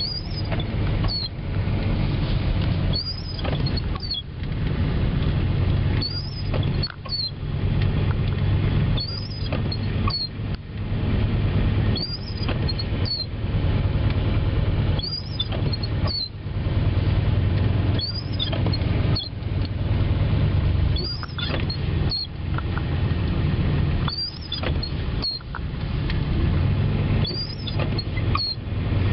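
Windshield wipers squeaking across the glass, a short high squeal on each sweep about every three seconds, over the steady drone of the truck's engine and tyres on a snow-covered road.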